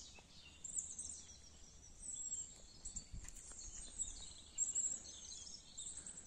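Faint birdsong: small birds chirping and twittering in quick, high calls over a quiet outdoor background.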